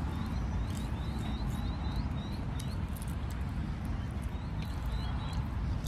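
Small birds chirping, many short high chirps at irregular spacing, over a steady low background rumble. A few crisp crunches come from chewing a crumb-coated chicken fry.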